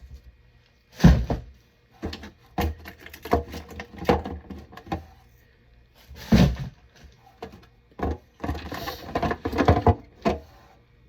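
Food containers and plastic fridge-drawer parts being handled, giving a series of irregular knocks and thunks in a small room.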